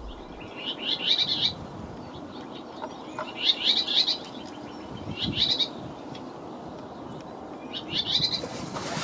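Common whitethroat singing: four short, scratchy warbling phrases of about a second each, spaced a few seconds apart.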